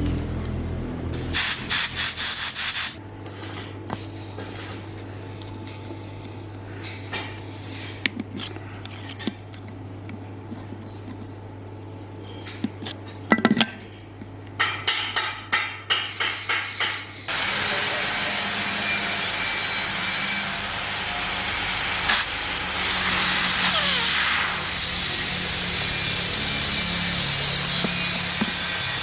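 Workshop work sounds in several cut-together segments: scraping and rubbing with a few short loud bursts, then a long steady noise over the second half.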